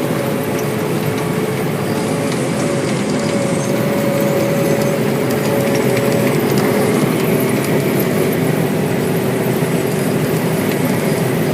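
Cameco 3510 sugar cane harvester and John Deere 6170R tractor running while harvesting cane: steady, loud machinery noise with whining tones through it, the higher of which drops out about seven seconds in.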